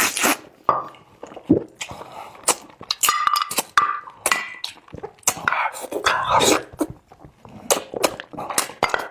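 Close-miked eating sounds: irregular wet chewing, lip smacks and sucking on braised pig's trotter.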